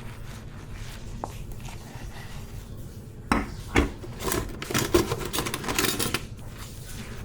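Dishes and cutlery clattering and clinking as they are handled in a kitchen sink, a quick run of sharp knocks in the second half after a quieter stretch.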